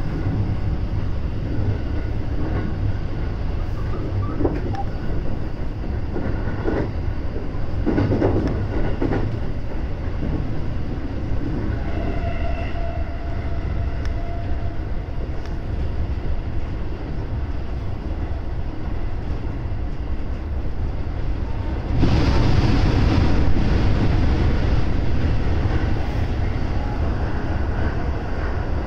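Running noise of a JR West 223-series electric train heard from inside the leading car: wheels rolling on the rails with the steady rumble of the train under way. About three-quarters of the way through, the noise suddenly gets louder and fuller as the train enters a tunnel.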